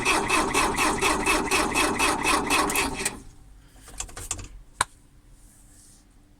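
Mercedes 609D's diesel engine cranking on the starter motor without catching, an even rhythm of about five strokes a second, which stops abruptly about three seconds in. A few sharp clicks follow, the loudest just before five seconds in.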